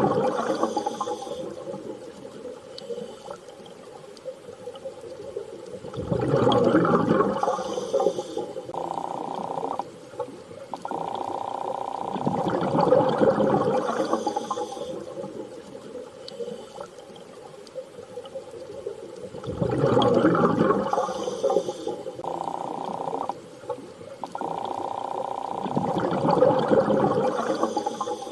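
Underwater sea ambience: water surging in slow swells about every six and a half seconds over a steady held tone that cuts out briefly twice.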